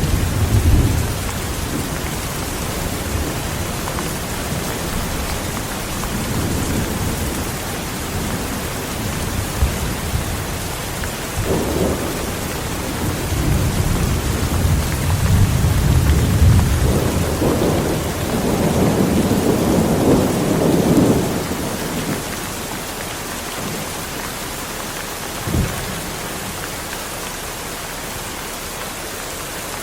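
Heavy rain falling steadily through a thunderstorm, with thunder rumbling several times and one short sharp thunderclap near the end.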